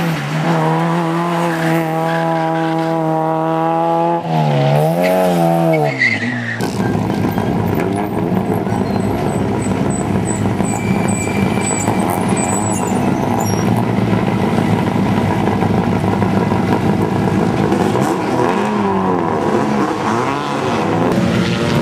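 Rally car engine on a hill-climb stage, held at a steady note for the first few seconds, then wavering up and down. From about six seconds in a rougher, fuller engine sound takes over, with revs rising and falling as the car is driven hard through the bends.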